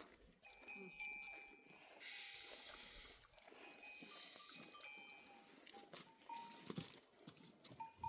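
Faint ringing of livestock bells hung on a herd of goats, several bells at different pitches clanking on and off as the animals move.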